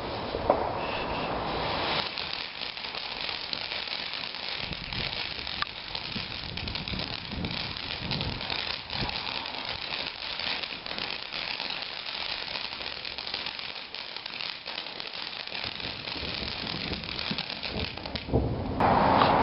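Garden fireworks: a steady crackling hiss with scattered small pops and one sharp crack about half a second in, then a louder rush of hissing that starts near the end.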